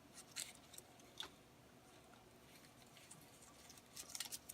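Faint crinkling and clicking of silicone repair tape being handled, in a few short spells, the most about half a second in and near the end.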